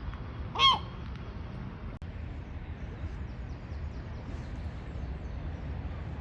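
A bird's single loud, harsh call lasting well under a second, about half a second in, over a steady low rumble.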